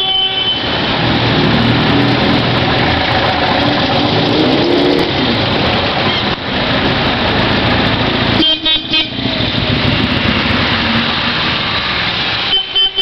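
Old cars and motorcycles with their engines running as they move off, with a brief dip and stutter in the noise about two-thirds of the way through. A steady horn-like tone sounds at the very start and again near the end.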